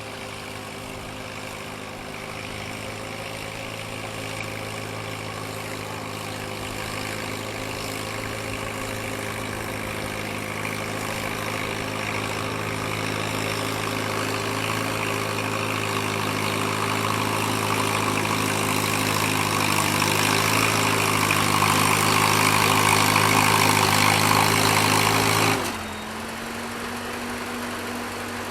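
Antique gas farm tractor engine pulling hard at steady speed, growing gradually louder for most of the run, then throttled back sharply near the end so the engine drops to a lower, fading tone as it winds down at the end of the pull.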